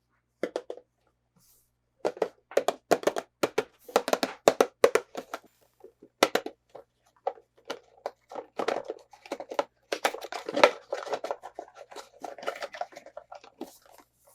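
Hands handling toy packaging: a quick, irregular run of crinkles, taps and clicks from plastic and cardboard, starting about two seconds in.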